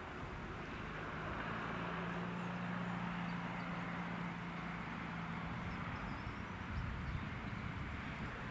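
A GWR Hitachi Class 800-series train approaching the station, with a steady low hum from its engines and a rougher rumble growing in the last couple of seconds.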